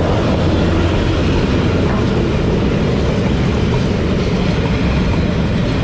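Vietnamese metre-gauge train running past close by: a loud, steady rumble of wheels and engine.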